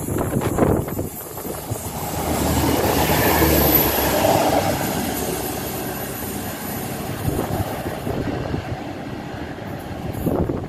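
Chiltern Railways diesel multiple unit passing through a station at speed. The engine and wheels on the rails swell to a peak a few seconds in, then fade as the train draws away.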